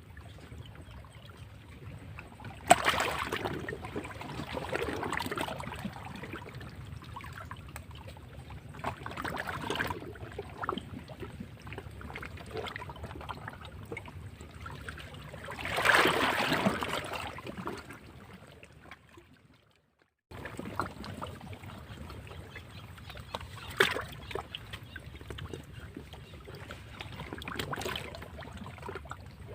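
Sea waves breaking against rocks: a steady wash of surf with a louder surge and splash every few seconds, the strongest about halfway through. The sound drops out for a moment about two-thirds of the way through.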